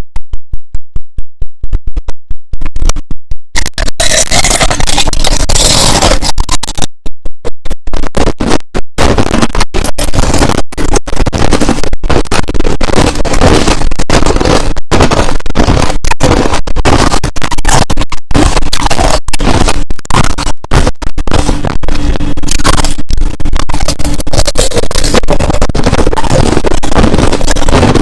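Crushed ice crunching loudly as it is chewed close to the microphone, a rapid run of sharp crunches, steadier and denser for most of the stretch.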